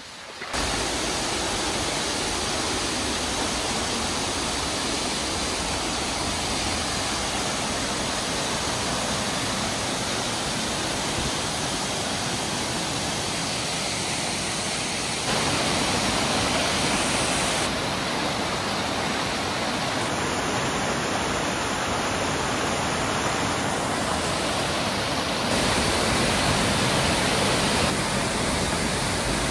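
A waterfall's steady roar of falling water. Its loudness and tone change abruptly a few times.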